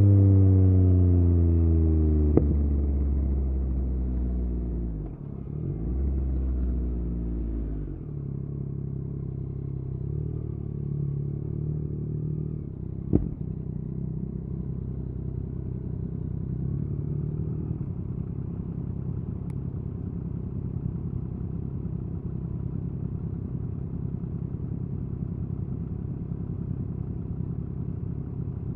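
Yamaha MT-09's inline three-cylinder engine through an Akrapovič exhaust, falling in pitch as the bike slows over the first five seconds. It gives a short rev a couple of seconds later, then idles steadily for the rest. A sharp click sounds about two seconds in and another about thirteen seconds in.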